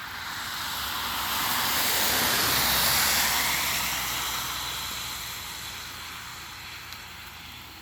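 A vehicle passing by: a hiss-like rush that swells to a peak about three seconds in, then drops slightly in pitch and fades away.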